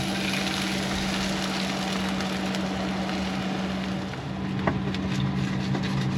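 Quesadilla frying in a pan, a steady sizzling hiss with a low steady hum beneath it; a few light clicks near the end.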